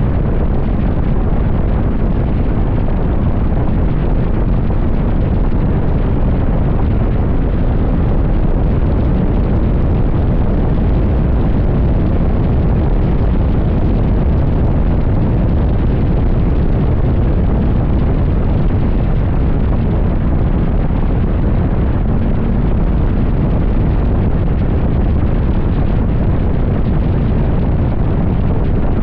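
Wind buffeting the microphone of a motorcycle at highway speed: a loud, steady low rumbling rush with no break.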